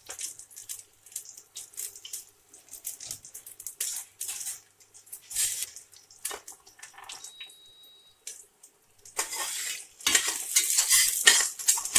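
Cumin seeds, chopped green chillies and ginger sizzling and crackling in hot ghee in a steel pressure cooker, with many sharp little pops; from about nine seconds in, a spoon stirring and scraping in the cooker makes louder, denser clatter.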